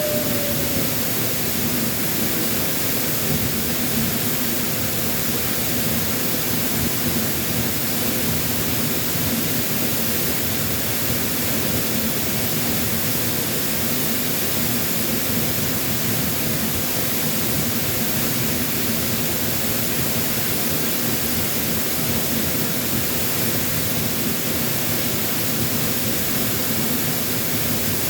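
Waterfall pouring, a steady loud rush of falling water with no let-up, the falls running high after a typhoon.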